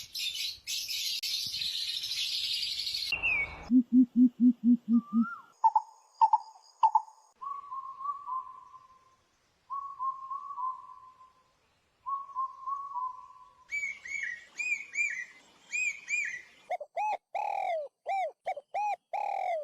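A hiss for about three seconds, then a string of bird calls: a quick run of low hooting notes, then short groups of whistled notes, then repeated arched chirps that continue to the end.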